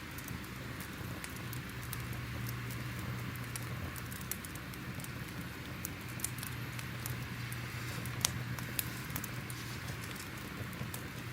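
Crackling fire: scattered sharp pops and crackles over a steady hiss, with a low hum underneath.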